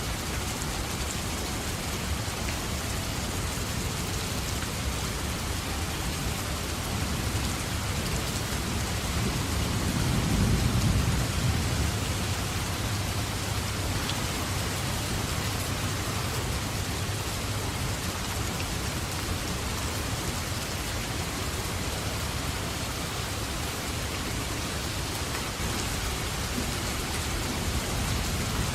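Steady rain pouring down, with a low rumble of thunder that swells about ten seconds in and dies away over a few seconds.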